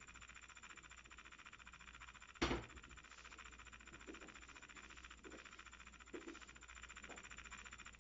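Faint, steady whirr of a 3D pen's extruder motor feeding plastic, with a fast even pulsing. A single sharp knock comes a little over two seconds in.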